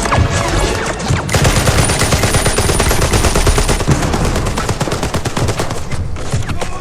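Battle sound from a First World War trench-fighting film soundtrack: dense, continuous machine-gun and rifle fire, shots rattling many times a second.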